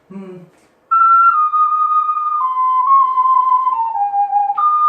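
Soprano G ocarina playing a smooth, stepwise descending phrase of connected notes, then leaping back up to a higher note near the end.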